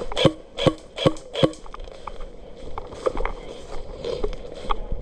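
Double Eagle DMP9 airsoft gun fired four times in single shots, evenly spaced about two and a half shots a second, followed by fainter clicks and knocks of handling.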